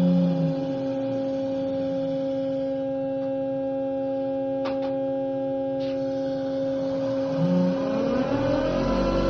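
Bosch servo valve test rig running with a steady hum made of several held tones. A lower tone drops out about half a second in and comes back near the end, when a rising whine with more rumble sets in, the valve being driven through its test cycle; two faint clicks are heard in the middle.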